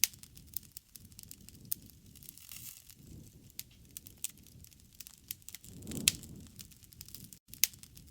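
Campfire crackling, with scattered sharp pops of burning wood over a low rumble, the biggest pops at the start, about six seconds in and near the end. It cuts out for an instant shortly before the last pop.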